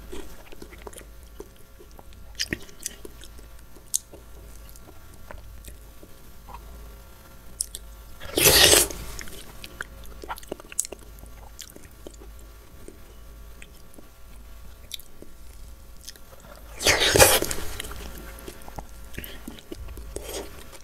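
Close-miked chewing of soft, juicy fruit with small wet clicks, broken by two louder juicy bites about eight and seventeen seconds in.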